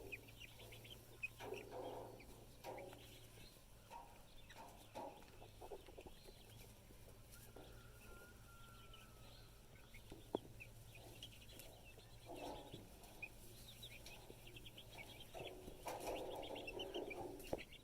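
Faint peeping and clucking of young meat chickens: many short high chirps with scattered louder clucks.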